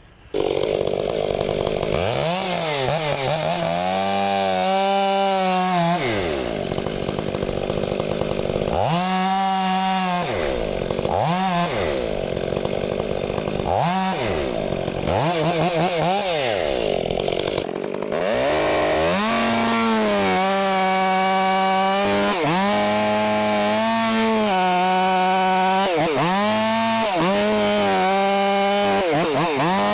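Two-stroke chainsaw revving up and dropping back several times, then held at high revs with brief dips as it cuts through a tree.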